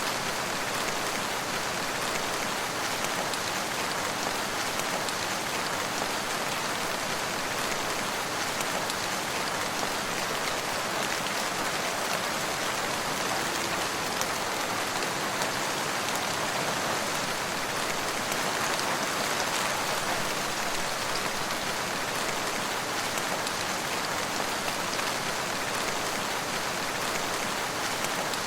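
Steady rain falling, a dense hiss of drops pattering on surfaces with no thunder or lulls.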